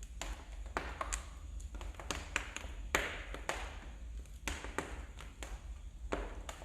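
Wood fire in a fireplace crackling: irregular sharp pops and snaps, several a second, over a soft hiss of burning.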